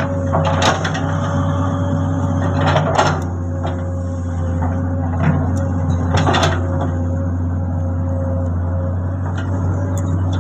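Komatsu excavator's diesel engine running steadily under a constant hydraulic whine, with three short bursts of clatter about a second, three seconds and six seconds in as the machine works.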